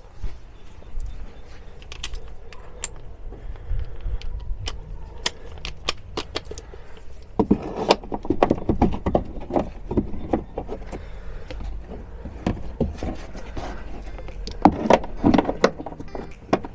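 Metal hand tools clinking and knocking: a socket and wrench being worked onto a hard-to-reach suspension bolt. The sharp, irregular clicks are sparse at first, then come in busy flurries about halfway through and again near the end.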